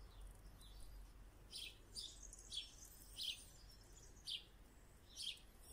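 Faint birds chirping outdoors: short high calls roughly once a second over a low, steady background rumble.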